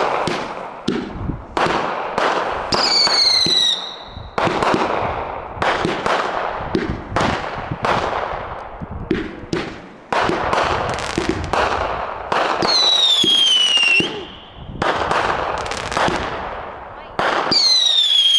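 Fireworks going off in quick succession: a steady run of sharp bangs with crackling tails. Three whistles fall in pitch, about three seconds in, again around thirteen seconds and near the end.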